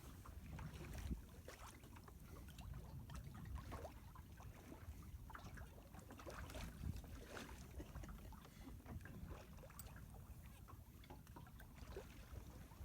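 Faint water lapping and splashing irregularly against the hull of a 20 ft sailboat, over a low steady rumble of wind.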